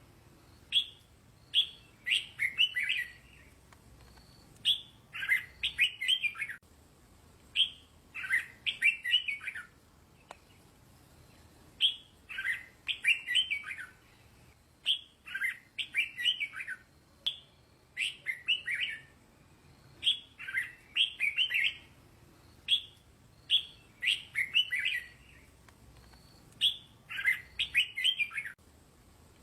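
Red-whiskered bulbul singing: short, lively phrases repeated every two to three seconds. Each phrase is a brief note followed by a quick run of warbled notes.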